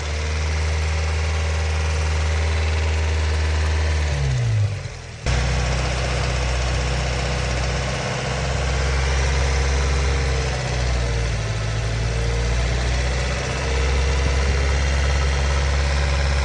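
Mazda Miata NB 1.8 VVT four-cylinder engine idling steadily with the weird valvetrain noise its owner is chasing. The revs rise briefly about four and a half seconds in, the sound cuts off abruptly, and then steady idling resumes.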